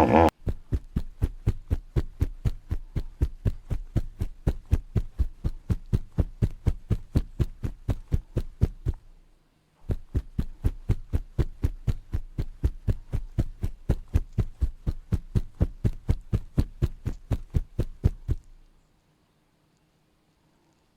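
Hippopotamus giving a long, even series of rapid pulsed grunts, about four to five a second. It pauses briefly about nine seconds in, runs on again, then stops a few seconds before the end.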